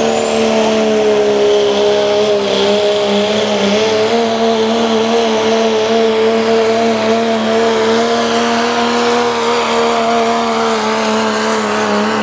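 Diesel engine of a Dodge Ram pulling truck running hard at high, nearly steady revs under load while pulling the sled, with a high whistle rising over the first second or so.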